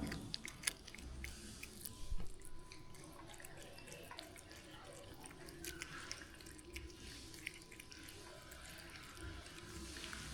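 Water dripping with scattered light clicks and taps at irregular intervals.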